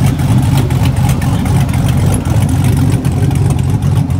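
A car engine idling, loud and steady, its sound mostly low-pitched with a fast, even pulse.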